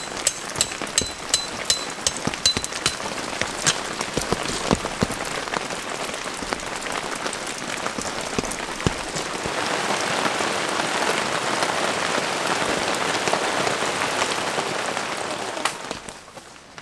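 Steady rain falling, with sharp regular ticks about three a second in the first few seconds. The rain grows louder about ten seconds in and eases off near the end.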